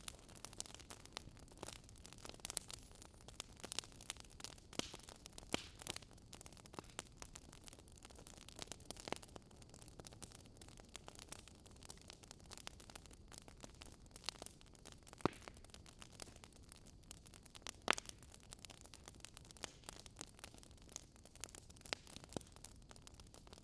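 Wood fire crackling: scattered sharp pops and snaps at irregular intervals over a soft steady hiss.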